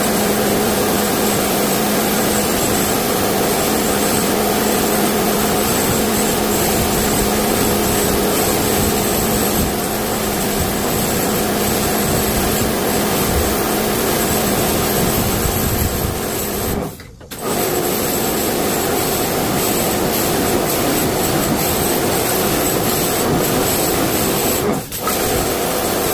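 High-pressure washer running and spraying in a steady rush, cutting out briefly about two-thirds of the way through and twice more near the end, as the trigger is let go.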